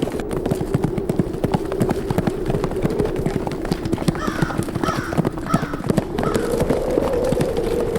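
Horses galloping, a dense run of hoofbeats, over a steady whistling wind. Near the middle come four short calls in about two seconds, like a crow cawing.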